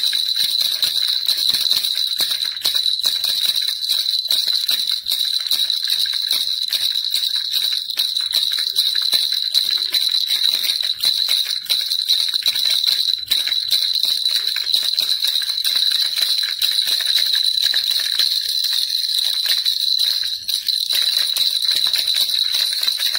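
Baby rattle shaken continuously: fast, dense rattling with a steady high ringing tone over it.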